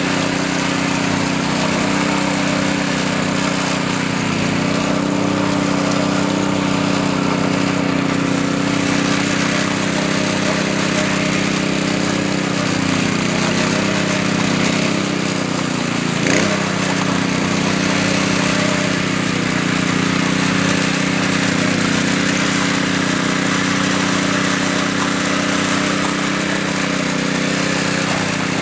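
Power trowel's small petrol engine running steadily as it smooths fresh concrete, with one brief dip and recovery in pitch about halfway through.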